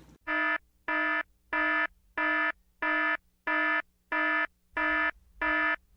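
An electronic alarm buzzer sounding in a steady run of identical pulses, about three every two seconds, each one short and buzzy at the same pitch.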